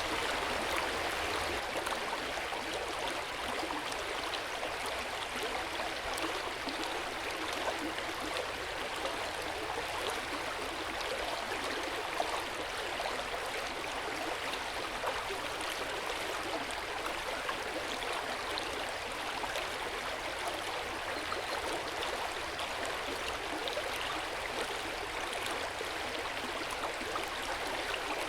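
Hot-spring water flowing and splashing steadily into an open-air bath, an even rushing with small irregular splashes.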